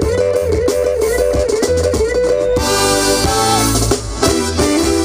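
Live band playing an up-tempo tune on guitar and drum kit. A fast, repeating lead melody gives way about two and a half seconds in to held chords over crashing cymbals and drum hits.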